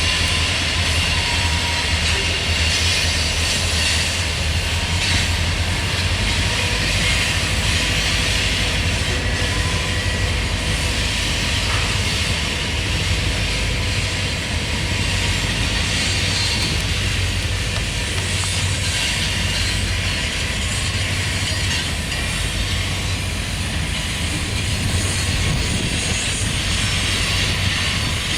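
Freight train rolling past, a steady low rumble with continuous wheel-on-rail noise from the cars.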